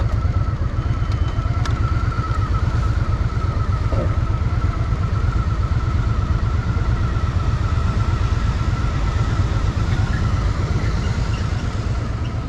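Honda Shadow VT750's V-twin engine running steadily, with a low pulsing exhaust note and a steady high whine over it.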